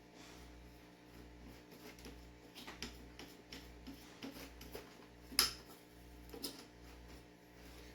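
Light clicks and knocks of hard plastic gravel-vacuum parts being handled and fitted together, with one sharper knock about five and a half seconds in, over a faint steady low hum.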